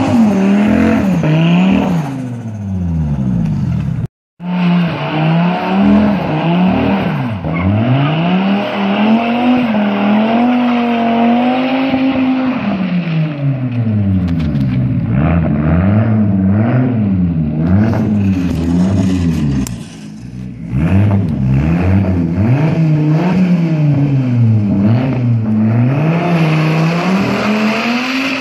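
Rear-mounted engine of a twin-engine Volvo 850 estate revved hard and repeatedly during a burnout, its rear tyres spinning and scrubbing on tarmac through a rear axle with no limited-slip differential. In the second half the revs rise and fall about once a second. The sound drops out briefly about four seconds in.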